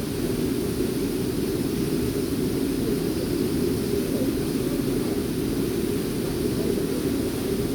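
Waterfall's water rushing steadily, a deep, even noise with no breaks.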